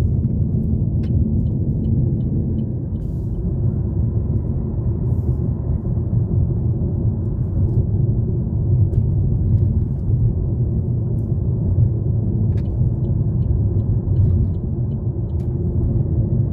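Steady low rumble of a car driving on the road: engine and tyre noise.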